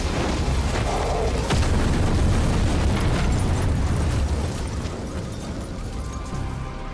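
A truck exploding: a deep rumbling blast with a sharp crack about a second and a half in, then the rumble dies away over the last couple of seconds.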